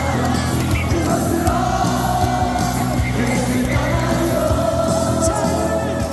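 A stadium crowd of thousands singing a Korean baseball cheer song in unison over amplified ballpark music, holding long notes.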